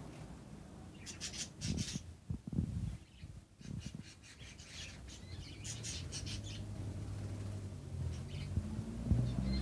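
Budgerigars chirping and chattering in two bursts of short, high calls, about a second in and again around five seconds in. A low steady hum builds up near the end.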